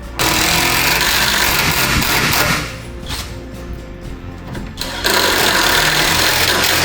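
Power tool cutting or shaping wood, running in two loud bursts of about two and a half seconds each, with a quieter gap between.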